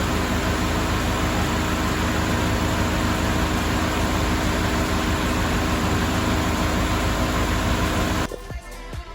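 Mercedes-Benz W124 230E's four-cylinder engine running steadily, with a dense hiss over it. It cuts off abruptly near the end and music begins.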